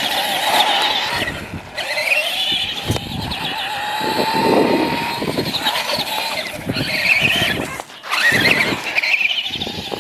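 Electric Traxxas RC car's motor and gears whining, the pitch rising again and again as it accelerates and falling as it slows.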